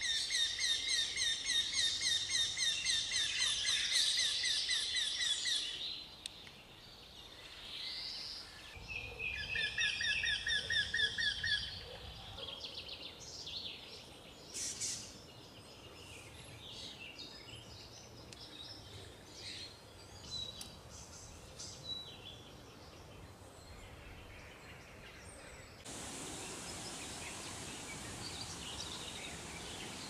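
Wild birds singing: a fast run of repeated clear notes for the first six seconds, a second similar run about nine seconds in, then scattered short chirps. Near the end a steady hiss sets in suddenly.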